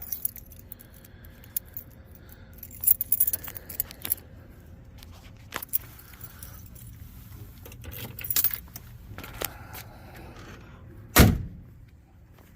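Metallic jingling and scattered clicks, with one loud heavy thump about eleven seconds in.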